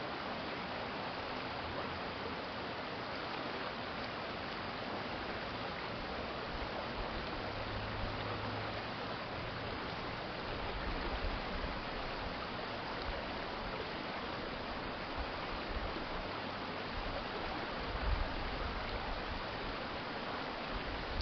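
City stream flowing steadily, a continuous even rush of water. Brief low rumbles come and go over it, the strongest near the end.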